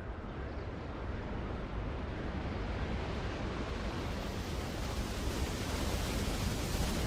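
Steady outdoor rushing noise with no distinct events, swelling slowly louder and brighter.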